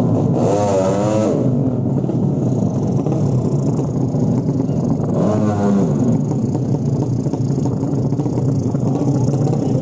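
Racing underbone motorcycle engines running, with quick rising and falling throttle blips about a second in and again around five seconds in.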